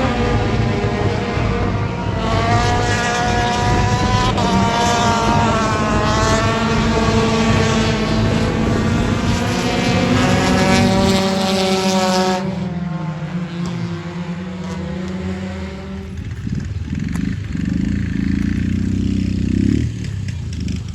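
Race car engine running hard, its pitch rising and falling with the throttle. About twelve seconds in it drops away to a quieter, lower engine sound.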